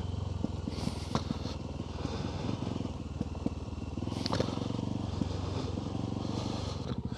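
Off-road motorbike engine running steadily on the move, with a few sharp knocks and clicks over it.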